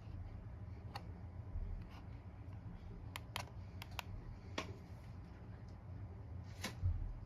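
Monte Carlo Vios ceiling fan running with a steady low motor hum, and a few sharp light clicks scattered through it.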